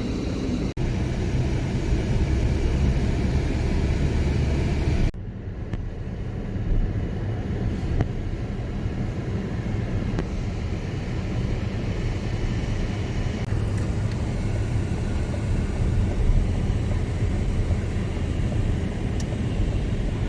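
Car engine and road noise heard from inside the cabin while driving, a steady low drone. The sound changes abruptly about one second in and again about five seconds in.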